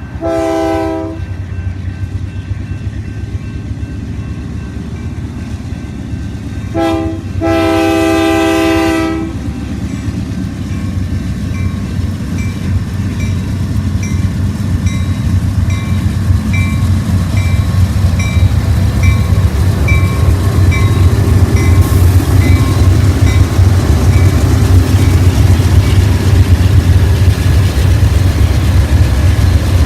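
Diesel freight locomotive's air horn sounding: a short blast, then a quick toot and a longer blast about seven seconds in. After that the diesel engines' rumble builds steadily louder as the train starts to move, with a faint regular tick about once a second.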